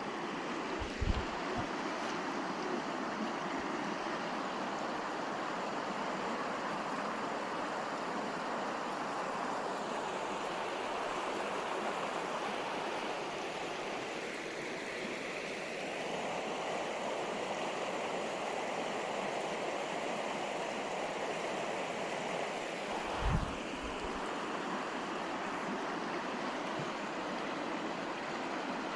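River water flowing steadily, an even rushing sound. Two brief low thumps, about a second in and again near the end.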